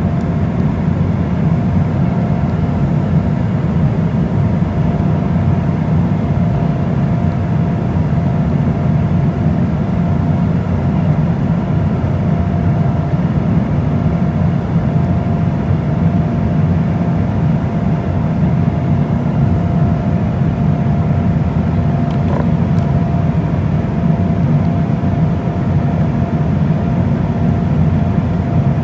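Steady cabin noise inside an Embraer E190 airliner: a low roar of its turbofan engines and airflow, with a faint steady hum above it.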